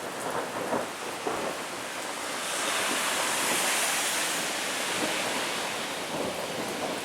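Rain during a thunderstorm: a steady hiss of falling rain with scattered crackles, swelling louder for a couple of seconds in the middle.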